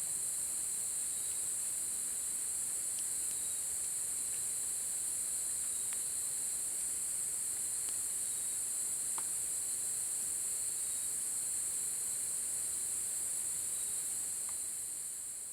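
Steady high-pitched chorus of insects singing, with a few faint scattered ticks; it fades out near the end.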